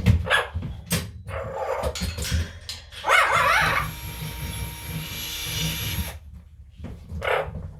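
Pet parrots squawking and screeching in loud, repeated bursts, with a long harsh screech in the middle.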